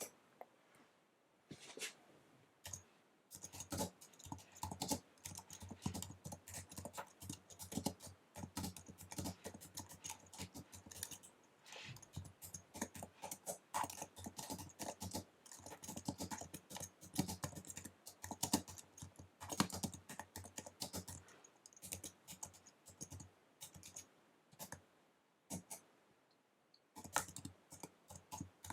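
Fast typing on an Apple wireless keyboard: rapid key clicks. They are sparse for the first few seconds, then come thick and fast, with a short pause near the end before the typing resumes.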